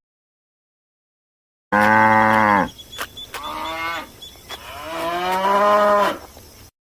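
Cattle mooing: three moos, a loud one about two seconds in that drops in pitch as it ends, a shorter fainter one, then a longer one that swells before stopping.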